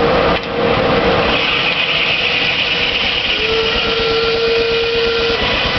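Sawmill running: loud, dense machine noise with a steady whine. A higher hiss comes in about a second in, and a clear steady tone holds for about two seconds in the second half.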